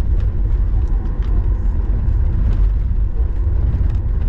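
Steady, loud low rumble inside the cabin of a Boeing 737 MAX 8 as it rolls on the ground just after landing, the noise of the wheels and engines carrying through the cabin.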